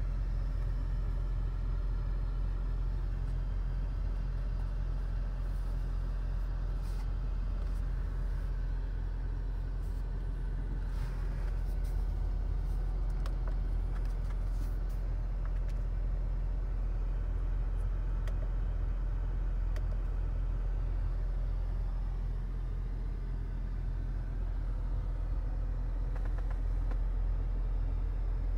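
Car engine idling: a steady low rumble with no revving.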